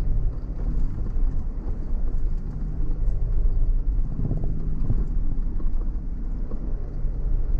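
Off-road vehicle driving along a rough dirt track: a steady low rumble of engine and tyres, with a short run of knocks a little over four seconds in.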